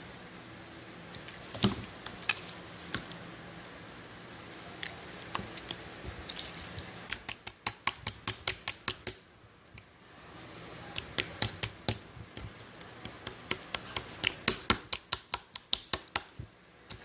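Rapid series of sharp clicks or taps, about five a second, in two runs with a short pause between, after a few scattered clicks.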